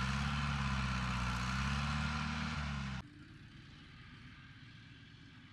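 Heavy diesel engine of earthmoving equipment running loud under load, its pitch wavering slightly. It cuts off abruptly about three seconds in, leaving only a faint low rumble.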